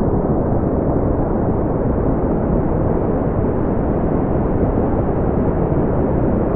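Brown noise: a steady, even rumbling hiss weighted toward the low end, with no events or changes.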